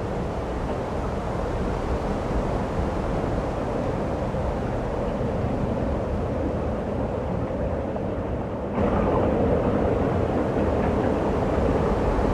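Steady rumbling wind of a snowstorm, which suddenly gets louder about nine seconds in.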